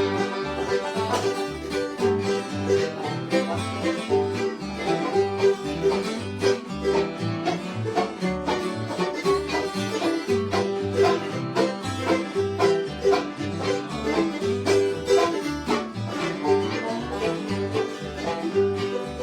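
Bluegrass band playing an instrumental break between sung verses: banjo and guitar picking over a steady, evenly stepping bass line.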